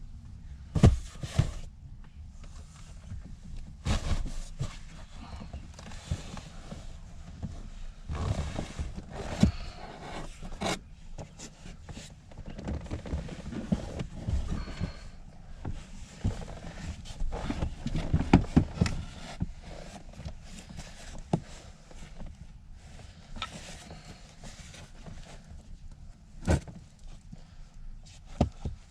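Irregular knocks, clicks and scraping of hands working on car interior parts, with louder clusters of clunks now and then, over a steady low rumble.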